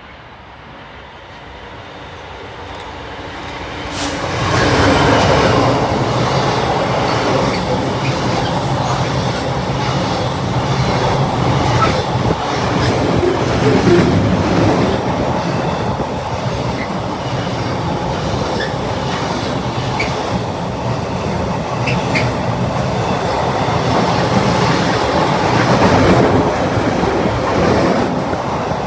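A locomotive-hauled train passing close by: the sound builds over the first four seconds, then a loud, steady rumble of wheels on rail that holds to the end.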